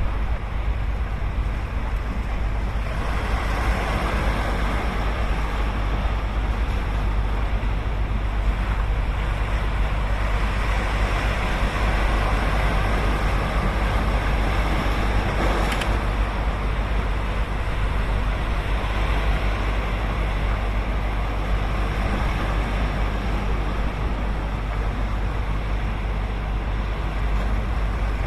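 Ocean surf breaking and washing on a sandy beach, a continuous wash that swells and eases, over a strong steady low rumble. A single short click about sixteen seconds in.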